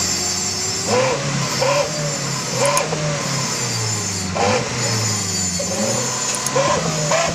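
A petrol car's engine is revved in short blips through a wolf-howl whistle exhaust. Each blip gives a short howling whistle that rises and then falls, about six times over a steady engine drone.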